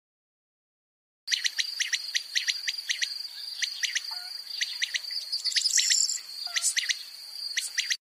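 Crickets chirping: a steady high trill with sharp repeated chirps over it, starting about a second in after silence.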